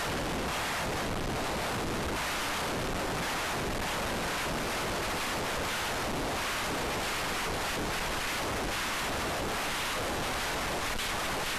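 Steady, loud rush of wind noise on the microphone in high wind, with no motor tone standing out.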